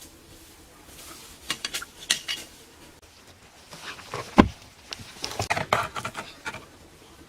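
Hard objects knocking and clinking together in short clusters, with one heavy thump a little past the middle.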